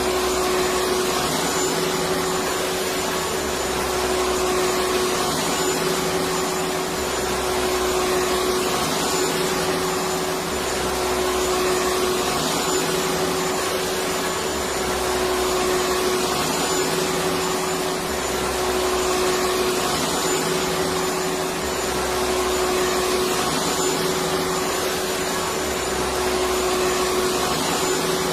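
Electric vacuum cleaner running steadily: a constant rushing noise with a steady motor hum, and a faint low swell that recurs every couple of seconds.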